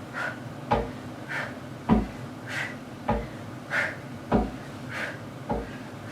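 Feet thumping onto a wooden plyo box in a steady rhythm, about one landing a second, during decline knee tucks. A softer rustle comes between each landing.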